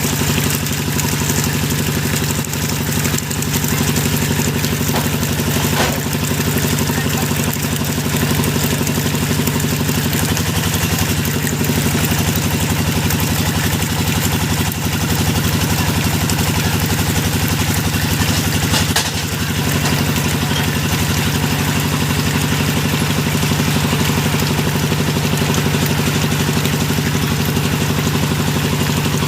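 Engine driving a hydraulic deep-well drilling rig, running steadily. Its pitch rises briefly about ten seconds in and dips for a moment around nineteen seconds.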